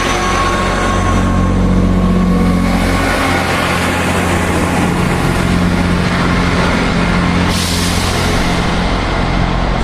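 Class 158 diesel multiple unit's underfloor diesel engines running steadily under power as the train pulls away from the platform, with a rush of hiss coming up about three-quarters of the way through.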